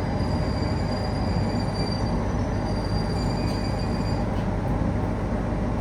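Train running on the rails, heard from inside the carriage: a steady rumble of wheels and track, with a faint high wheel squeal that fades after about two seconds.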